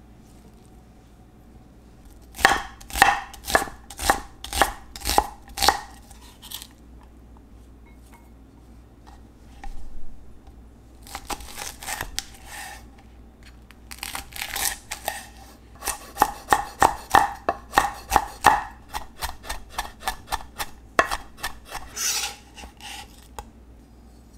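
Knife chopping ingredients on a cutting board: runs of sharp strikes, slower at first, then quicker, with pauses between the runs.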